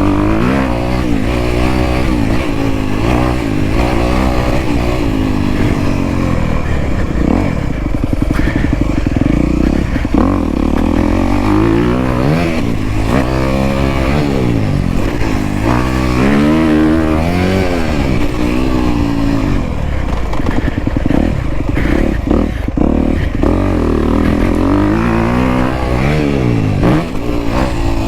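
Off-road motorcycle engine being ridden hard, its pitch repeatedly rising and falling as the throttle is opened and shut through the gears.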